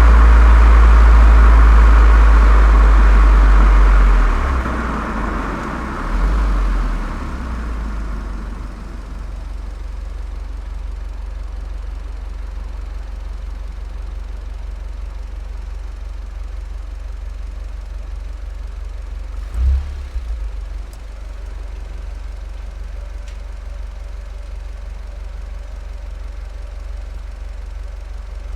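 Volkswagen Golf 7 GTI's turbocharged four-cylinder engine, fitted with a Cox aftermarket exhaust, running loud for the first four seconds, then settling to a steady idle with a low, even drone. There are two brief swells, about six and twenty seconds in.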